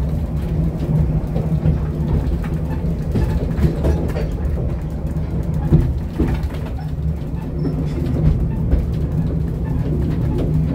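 Narrow-gauge passenger train running slowly, heard from inside the carriage: a steady low rumble of the wheels on the rails with frequent small clicks and knocks.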